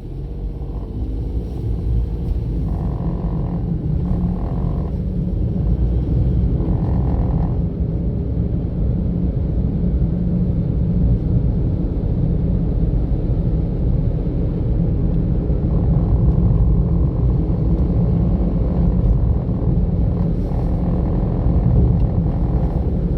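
Car driving along a road: a steady low rumble of engine and tyre noise, with a fainter higher hum that comes and goes a few times.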